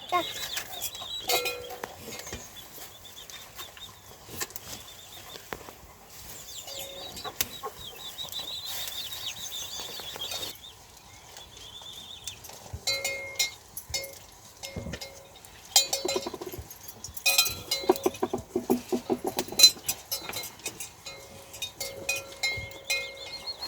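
Farmyard livestock: chickens clucking and goats bleating, with short calls scattered throughout and a quavering bleat near the end.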